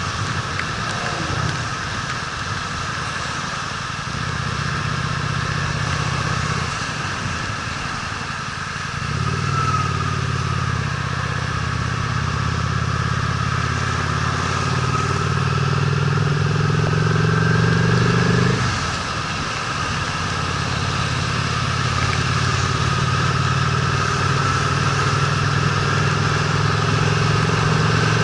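Honda Steed V-twin motorcycle engine running on the move, under a steady hiss. About a third of the way in the engine note climbs steadily, drops suddenly about two-thirds in, then settles into a steady drone.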